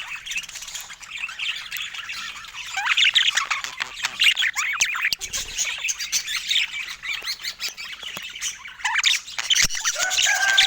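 Budgerigars chattering and warbling: a dense run of quick squawks, chirps and clicks. A steady, held whistle joins in near the end.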